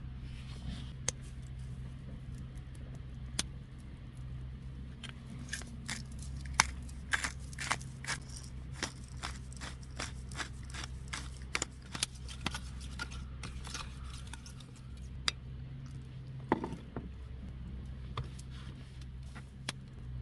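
A run of sharp clicks and scrapes from cooking preparation, densest in the middle and sparser near the start and end, over a steady low hum.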